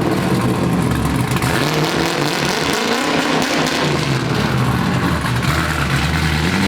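Race car engine revving up and down repeatedly, its pitch rising and falling several times, then cutting off suddenly at the end.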